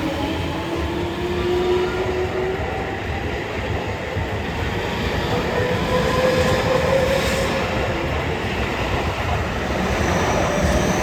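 Seibu 30000 series electric train accelerating away from a station. Its VVVF inverter traction motors whine, rising in pitch over the first couple of seconds and again around the middle, over a steady rumble of wheels on the rails.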